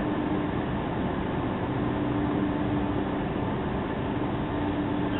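Steady running noise inside a Stockholm X10 electric commuter train, with a steady hum that fades for a moment in the middle and comes back.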